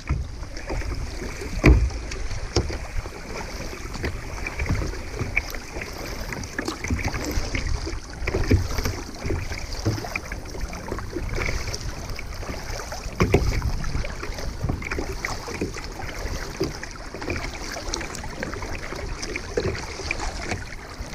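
Kayak paddling: paddle blades dipping and splashing in lake water at an irregular pace, with a few louder knocks or splashes, over light wind noise on the microphone.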